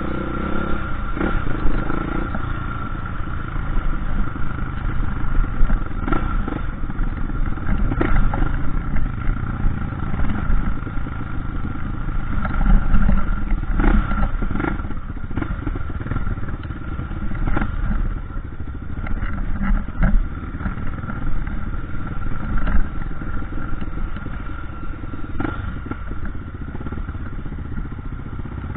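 Off-road dirt bike engine running steadily on a trail ride, with scattered knocks and rattles from the bike over rough ground.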